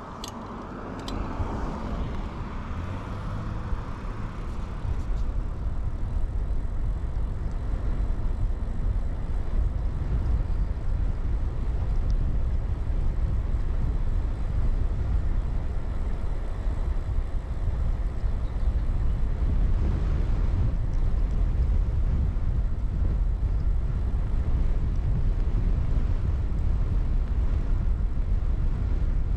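Low wind rumble on a chest-mounted action camera and tyre noise from a mountain bike being ridden. It builds over the first few seconds and then holds steady, with two short clicks near the start.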